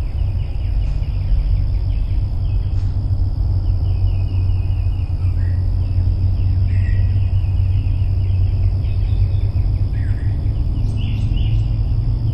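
Wind rumbling on the microphone during a rainstorm, with repeated short chirping bird calls and a few falling call notes over a steady high insect-like whine.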